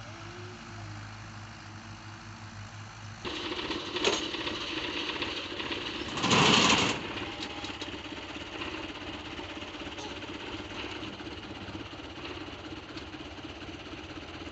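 Tractor engine running. About three seconds in it gets louder and rougher, as if revved hard under load. A loud burst of noise lasting about a second comes a few seconds later, and then the engine runs on with a fast, even pulsing beat.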